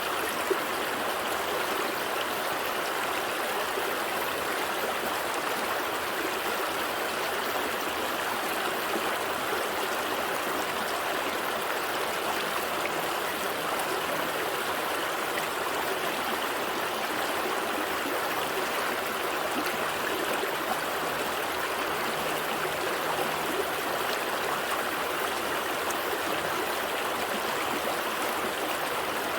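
Gentle stream flowing steadily over rocks, a continuous even rush and babble of water.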